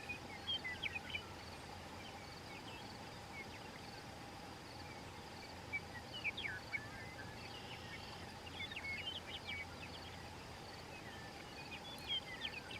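Wild birds singing short chirpy phrases a few times over a steady, faintly pulsing insect trill.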